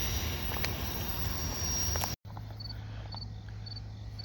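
A steady rushing outdoor noise, then after an abrupt cut a quieter low steady drone with insects chirping about twice a second.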